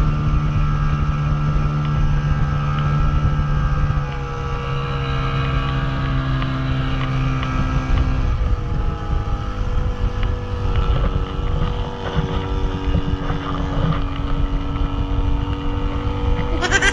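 Motorboat engine running steadily while towing a banana boat, with wind buffeting the microphone. The engine note shifts about halfway through.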